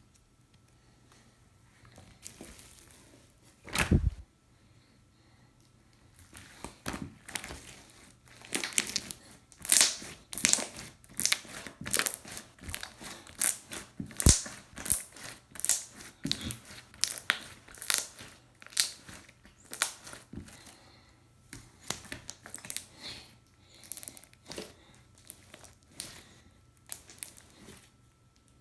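Stretchy slime being played with by hand, giving a fast run of small pops and crackles that is busiest in the middle. There is one heavier thump about four seconds in.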